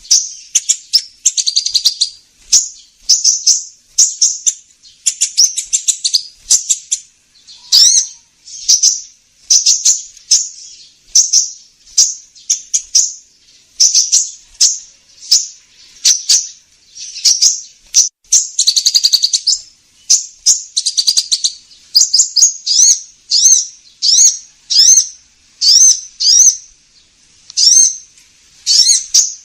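Recorded call of the kolibri ninja sunbird, played as a bird-trapping lure: a steady run of short, high, rapid chirping phrases, about one a second.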